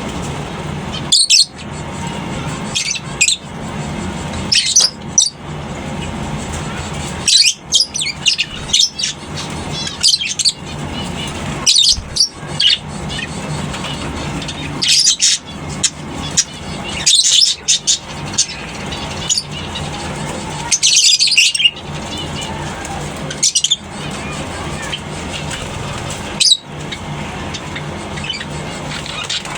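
Lovebirds in an aviary colony giving loud, shrill chirps in short bursts every second or two over a steady low background hum.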